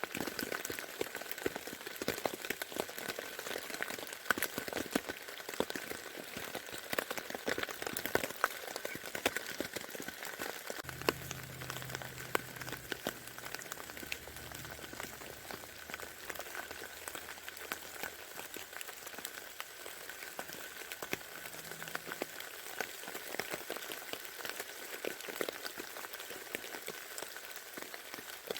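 Rain falling steadily on a tent, heard from inside: a dense, even patter of drops ticking on the fabric.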